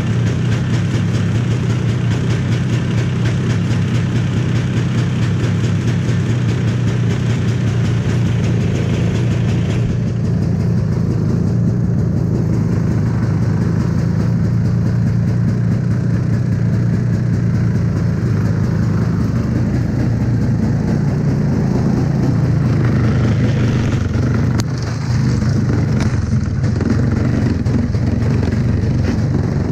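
The 1982 Ski-Doo Bravo snowmobile's single-cylinder two-stroke engine running steadily, warming up after a cold start at −10 °F. The sound turns duller about a third of the way in.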